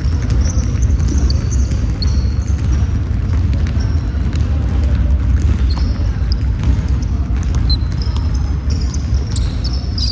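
Basketball play on a gym court: sneakers squeaking on the floor many times, with scattered thuds of the ball bouncing, over a steady low rumble.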